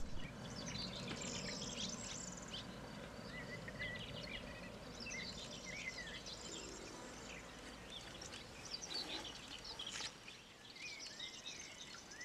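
Small birds chirping and singing, many short calls and trills overlapping throughout, over a faint steady outdoor rumble.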